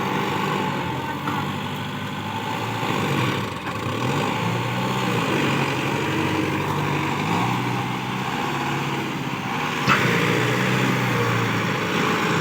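Kubota 4x4 tractor engine running steadily, its pitch dipping and rising slightly a few times, with a single sharp click about ten seconds in.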